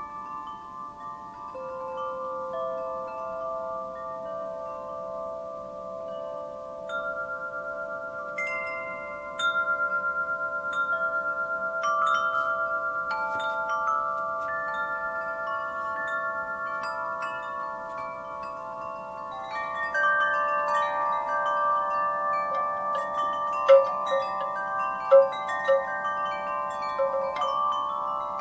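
Wind chimes struck irregularly by the breeze, their tubes ringing on in overlapping sustained tones, with a couple of sharper strikes late on.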